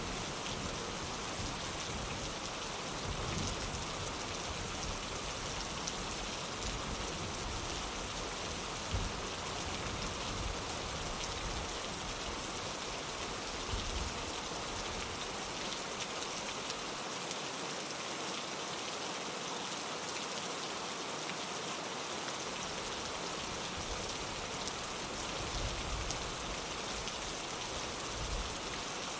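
Steady rain falling on a window, an even hiss of rainfall with individual drops tapping the glass.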